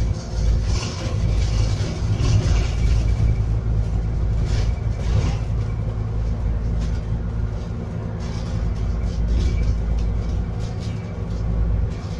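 Scania N280UD biogas double-decker bus under way, heard from inside: the gas engine's steady drone with road rumble.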